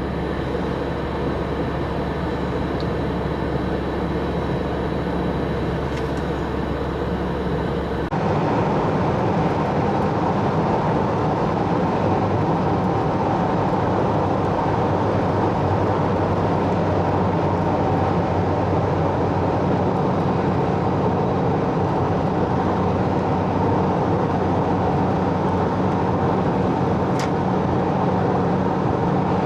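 A vehicle driving along a highway, with steady engine and road noise. About eight seconds in, a cut changes the sound to a slightly louder, duller rumble.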